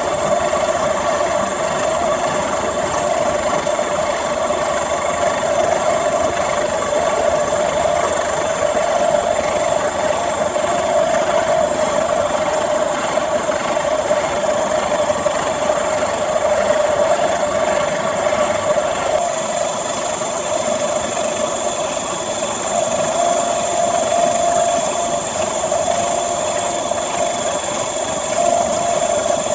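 Small briquette extruder driven by a low-wattage water-pump electric motor, running steadily with a continuous mechanical hum and whine.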